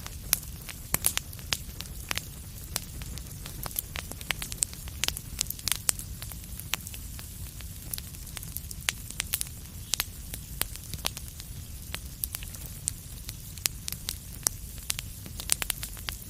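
Wood fire in a fireplace crackling: irregular sharp pops and snaps, several a second, over a steady low rumble of the burning.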